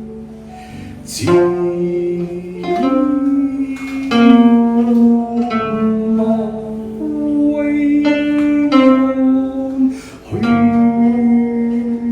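Live performance of Southern Song-period music: a plucked string instrument playing a slow melody of long held notes, some sliding up into pitch.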